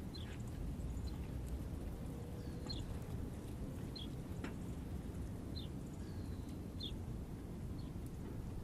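Small birds at a feeder giving short, high chirps, one about every second or so, over a steady low rumble.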